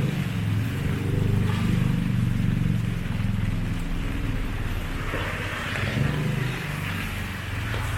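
Street traffic: vehicle engines running with a steady low hum, and a rushing hiss of a passing vehicle about five seconds in.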